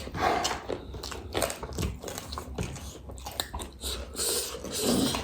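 Chewing and biting crunchy spicy street snacks, a run of short crunches and wet mouth clicks.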